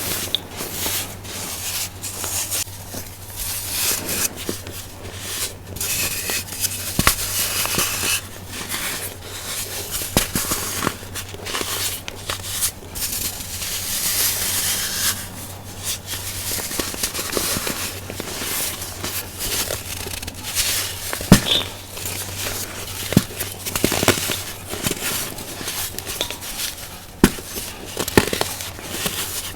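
Baked baking soda being crushed and crumbled: a dense, continuous run of dry crackling crunches, with sharper snaps every few seconds, the loudest about two-thirds of the way through.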